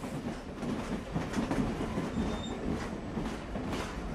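Train running along the track: a steady rumble with faint clicking from the wheels.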